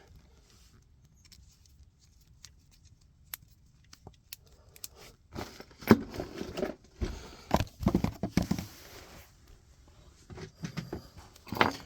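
Scattered clicks and rustles of wires and small parts being handled during transformer wiring, bunched together in the second half and quiet before that.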